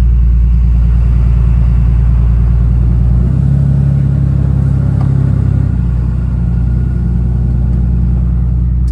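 Cummins diesel pickup engine running steadily under load as it pulls a loaded trailer away, a deep drone whose note shifts about three seconds in and again near six seconds.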